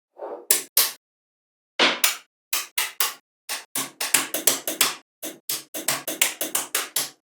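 A quick series of short, sharp knocks and taps, each followed by dead silence. They come faster after about two seconds, roughly four or five a second.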